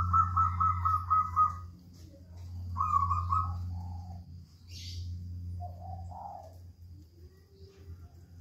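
Caged birds calling: a rapid run of repeated high notes at the start and again about three seconds in, with lower spotted dove coos around four and six seconds in. A steady low hum runs underneath.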